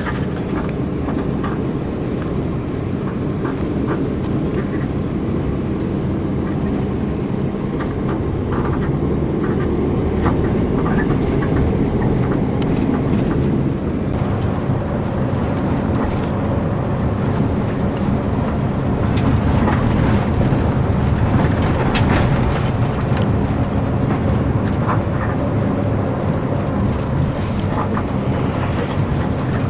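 Intercity bus on the move: a steady low engine and road rumble, with scattered faint rattles and clicks.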